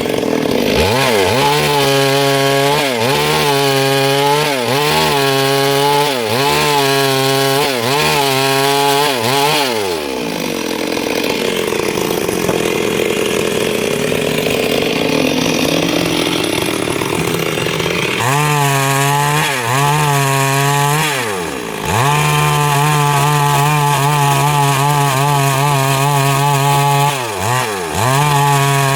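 Stihl MS 382 two-stroke chainsaw running at high revs as it cuts wood, its pitch dipping briefly about once a second. For several seconds in the middle the engine note drops lower, then it revs back up and goes on cutting with a couple of short dips.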